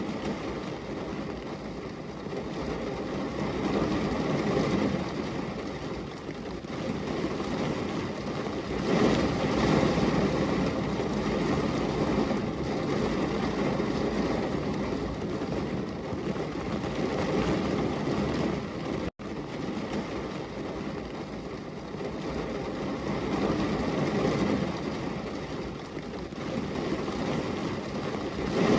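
Rain and thunder recording: steady heavy rain with rolling rumbles that swell louder several times. The sound cuts out for an instant about two-thirds of the way through.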